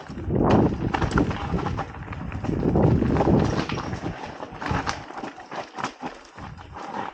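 Mountain bike riding down a rough, rocky trail: the tyres rumble over the ground and the bike rattles. The rumble surges in waves during the first half, then gives way to sharper clattering knocks.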